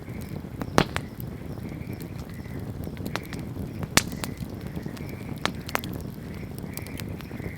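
Wood fire crackling, with scattered sharp pops (the loudest a little under a second in and about four seconds in) over a steady low rushing noise.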